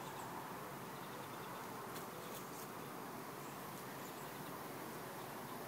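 Steady, faint buzzing of many honey bees flying around an opened hive.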